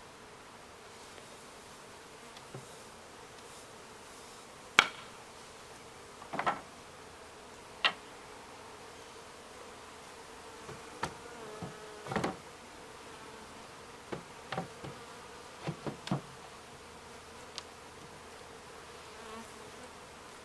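Honeybees buzzing steadily around a top bar hive, with a series of sharp knocks and clunks as the hive's lid is set in place. The loudest knock comes about five seconds in.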